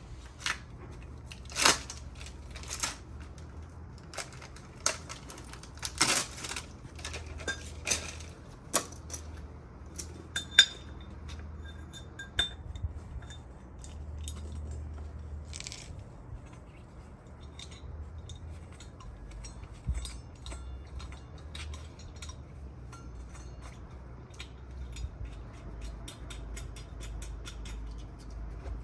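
Scattered metallic clinks and knocks as steel drill bit and extension parts are handled and fitted together, over a low steady hum.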